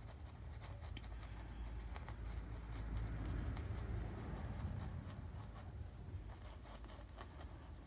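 A paintbrush working paint onto a canvas: soft scrubbing and dabbing with small ticks, a little louder in the middle.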